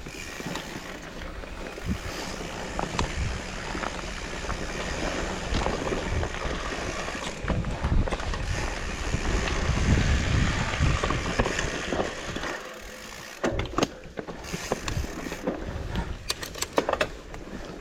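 Fat-tyre mountain bike riding along a trail: a steady rush of tyre and wind noise with low rumble and scattered knocks and rattles, then a cluster of sharp clicks in the last few seconds.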